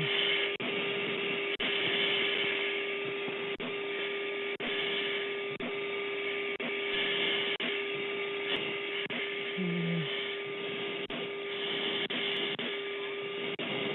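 Jet cockpit noise heard over the aircraft's intercom during the landing: a steady hiss with a constant hum tone and a faint click about once a second.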